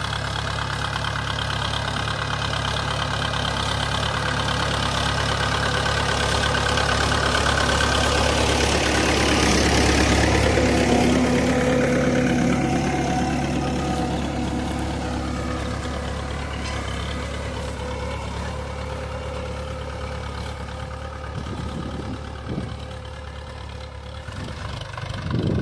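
Mahindra 475 tractor's diesel engine running steadily, growing louder to a peak about ten seconds in and then fading as it passes and moves away.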